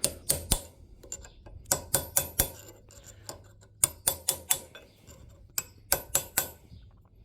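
Sharp metal-on-metal taps and clinks in about four quick groups of three or four, each tap ringing briefly: steel parts being tapped and knocked together while a bearing is fitted onto a shaft.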